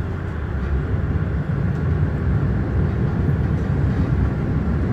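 Frankfurt U-Bahn line U8 light-rail train running along the track: a steady, low rolling rumble that grows a little louder in the first second.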